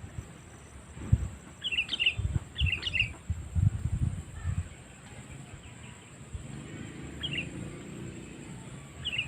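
Sooty-headed bulbul (kutilang) calling: short quick phrases, two close together about two and three seconds in and a single one near the end. Low thumps sound under the first calls, and a faint low rumble runs in the second half.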